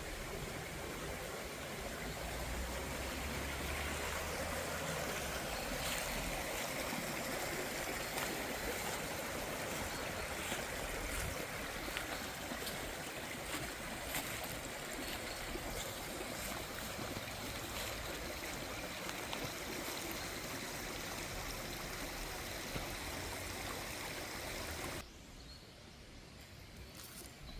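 Water of a stream running steadily. The sound falls away abruptly about 25 seconds in, leaving a much quieter background.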